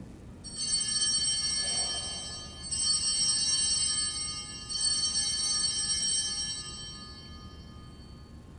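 Sanctus altar bells rung three times at the elevation of the chalice after the consecration. Each ring is a bright, high jingle that dies away over about two seconds.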